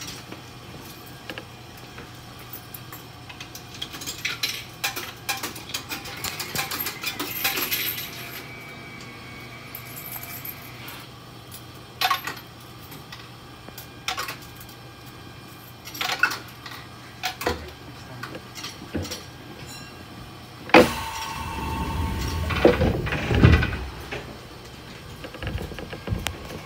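Inside the cab of a stationary ex-Tokyo Metro 03 series electric train: scattered clicks and knocks, and a steady beep of about three seconds. About 21 seconds in comes a sudden louder stretch of low rumble with a steady tone and a few sharp knocks.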